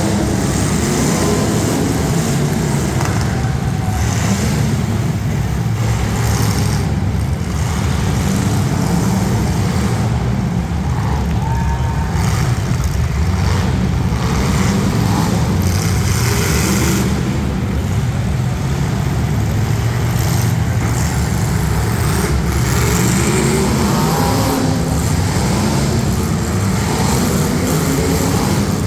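Several demolition-derby street stock cars' engines running and revving together, pitch rising and falling as drivers work the throttles.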